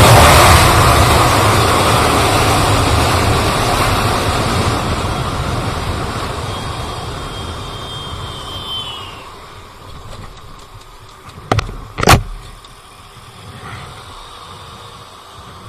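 Bajaj Pulsar RS200 motorcycle at speed with heavy wind blast on the microphone, the engine and wind noise dying away steadily over about ten seconds as the bike slows. Then two sharp knocks about half a second apart, the second the loudest.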